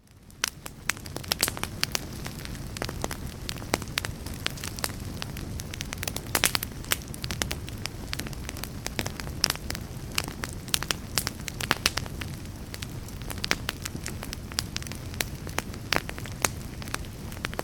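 Wood fire burning in a fireplace: a steady low rush of flames with frequent sharp crackles and pops from the burning wood, fading in over about the first second.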